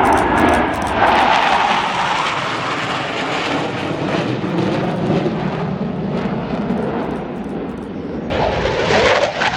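Fixed-wing aircraft flying past, a steady engine roar that swells and sweeps in pitch a couple of times.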